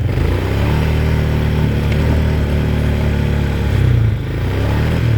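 Quad bike engine running while being ridden, a steady drone whose pitch shifts a little up and down with the throttle.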